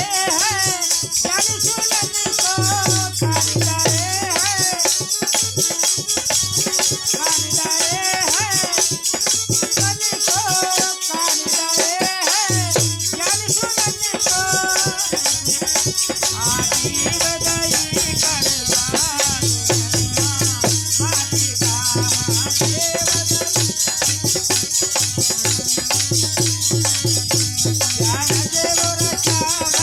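Hindi devotional bhajan sung by a male voice over a steady, continuous rattle of shaken hand percussion, with a low sustained accompaniment that drops in and out.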